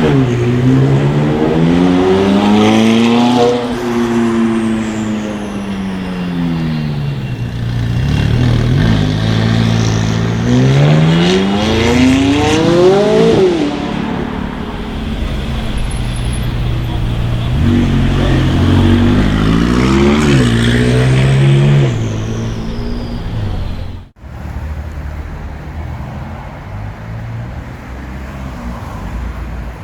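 Supercar engine revving hard three times, its pitch climbing sharply and then falling away each time. After a sudden break about four-fifths of the way in, a quieter steady rumble of traffic follows.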